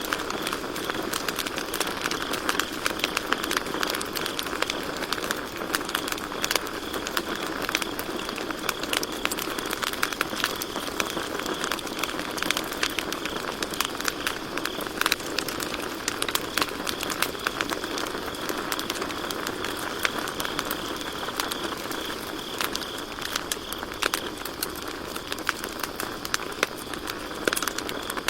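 Campfire crackling with frequent small, irregular pops and snaps, with crickets chirping steadily in the background.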